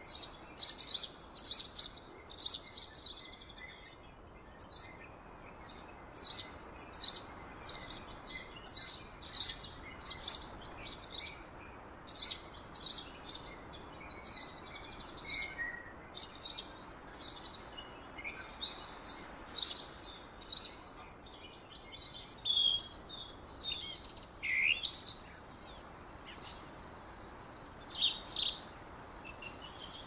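Small birds chirping: quick runs of short high chirps repeated over and over, with a few sweeping whistled notes near the end, over a faint steady hiss.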